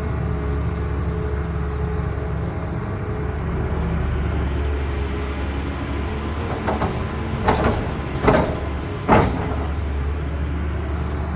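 Heavy diesel engine of a CAT excavator running steadily. About two-thirds of the way in come four sharp bangs in quick succession.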